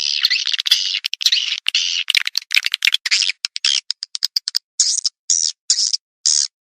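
Swiftlet lure call: recorded swiftlet twittering, dense and continuous for about three seconds, then breaking into separate short buzzy chirps and quick clicks with short gaps between them. It is an outside call, played to draw swiftlets to a nesting house.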